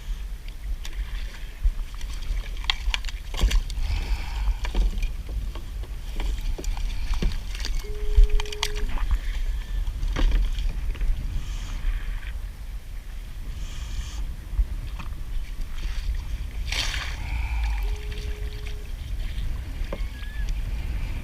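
Kayak paddling: paddle strokes and water splashing, with scattered knocks and a steady rumble of wind on the microphone. A short electronic beep sounds twice, about ten seconds apart.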